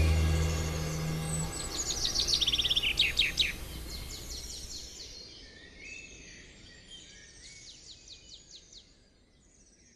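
Birds chirping and twittering in quick high trills, fading out gradually, after the last low note of the soundtrack music dies away.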